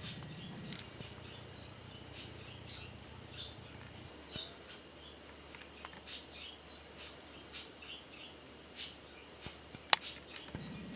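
Faint, scattered high chirps of small birds, with one sharp tap about ten seconds in.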